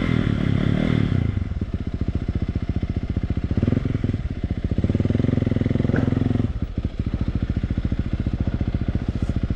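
Dirt bike engine chugging at low revs, then revving harder for a couple of seconds from about four seconds in, as on a climb under load, before easing back off.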